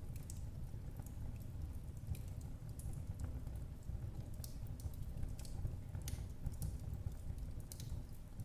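Wood fire in a fireplace burning steadily: a low rumble of the flames with irregular sharp crackles and pops, several a second.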